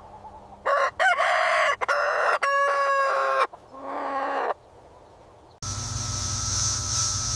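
Rooster crowing: one loud crow of about three seconds that ends on a long held note, then a shorter, quieter call. It breaks off abruptly into a steady hiss of background noise.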